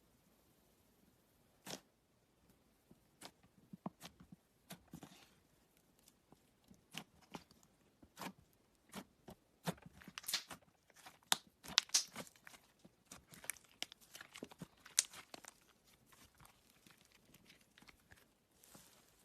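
Clay slime being squished and stretched by hand, giving irregular crackles and small pops that grow busier and louder in the middle.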